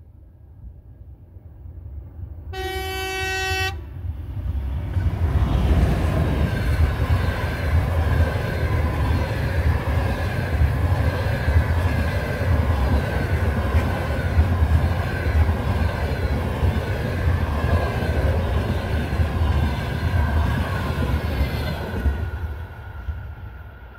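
EP2K electric locomotive sounds one horn blast, about a second long. Its passenger train then passes at speed as a loud, steady rush of wheels and carriages with a faint high ringing tone. The rush falls away near the end as the last carriage goes by.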